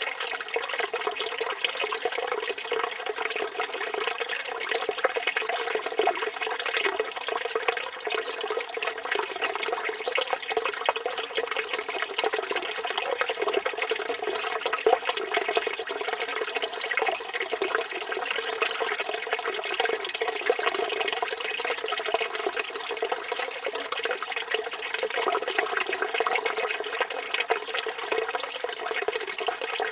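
Water from a village fountain's spout pouring steadily into its stone basin, a continuous splashing stream.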